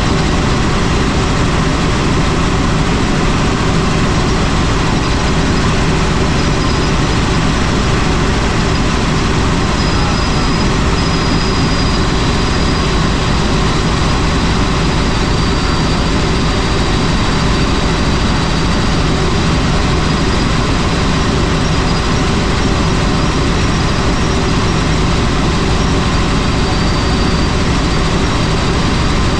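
Helicopter in flight: loud, steady rotor and engine noise with no let-up, and a faint high whine over it.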